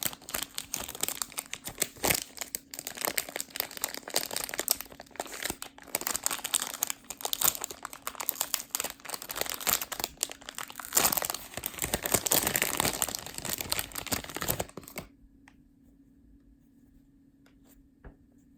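Plastic packaging wrap crinkling and crackling as it is handled and torn open to unwrap a squishy toy, stopping abruptly about fifteen seconds in. After that it is nearly quiet, with one faint tap near the end.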